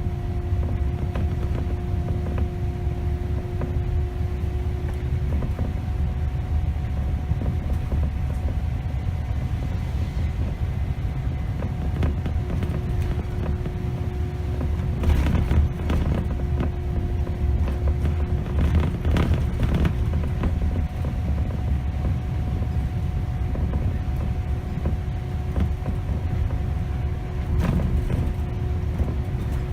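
Scania K270 city bus's diesel engine running under way, a steady low rumble with a constant whine over it, heard from the driver's position. A few short knocks or rattles come through around the middle and again near the end.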